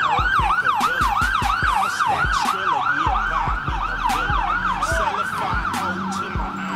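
Fire truck siren in fast yelp mode, each falling sweep repeating about four to five times a second, with repeated low thuds underneath.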